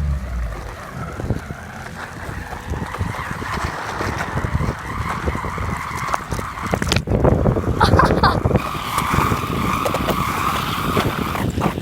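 Wind buffeting the microphone of a moving bicycle, with the bike clattering over bumps in the road. From about eight seconds in, a steady high squeal joins the noise.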